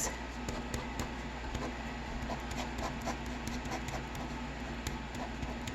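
Drawing strokes scratching on paper as many short hash marks and crossing lines are sketched in quick succession, over a low steady hum.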